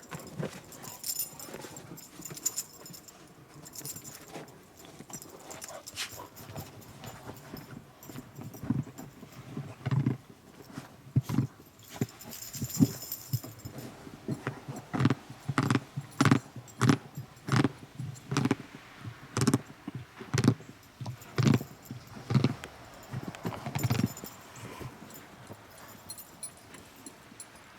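A dog chewing and crunching on something close by, in a run of sharp bites that is quicker and louder through the middle, about two a second. Its collar tags jingle now and then.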